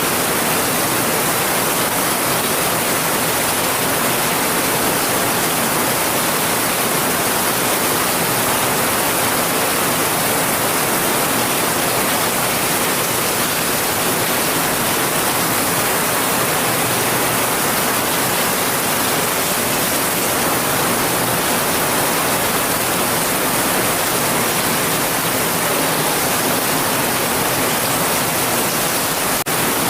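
Heavy rain falling as a steady, unbroken hiss, with no thunder or separate drops standing out.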